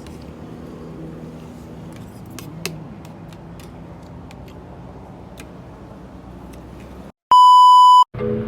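Steady vehicle engine hum and road noise with a few faint clicks, cut off about seven seconds in by a loud, steady, high electronic beep that lasts under a second.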